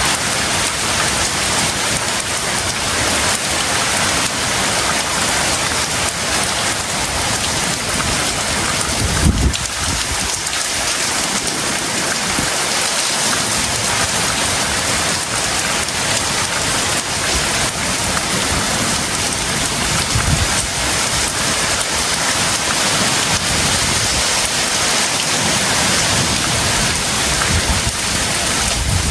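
Heavy tropical rain falling in a steady, dense hiss. A brief low thump comes about nine seconds in, with a smaller one about twenty seconds in.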